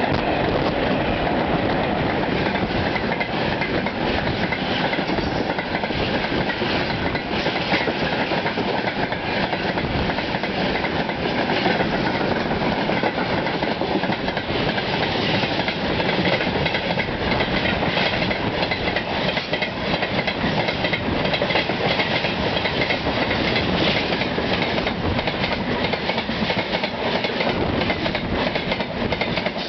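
Freight train passing close by, its wagon wheels knocking over the rail joints in a loud, steady rush of noise that lasts throughout.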